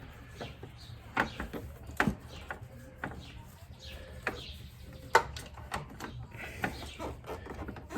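Scattered light knocks and clicks of a motorcycle engine cover and its rubber gasket being handled and worked out past the radiator and fan shroud, with a few sharper knocks about a second, two seconds and five seconds in.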